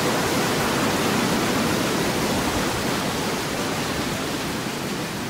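Steady rushing noise of stormy sea waves, a sound effect under the reading, easing off slightly toward the end.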